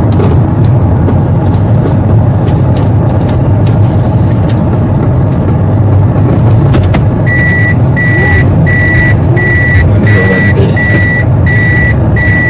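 A vehicle running with a steady low rumble. About seven seconds in, a high electronic warning beep starts, repeating about twice a second.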